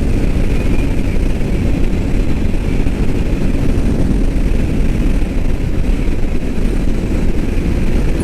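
Royal Enfield Meteor 350's single-cylinder engine running flat out at about 75 mph, under a steady low rush of wind noise.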